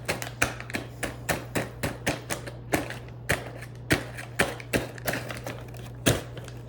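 Microwave popcorn popping: irregular sharp pops, about three a second, over the steady hum of the running microwave oven.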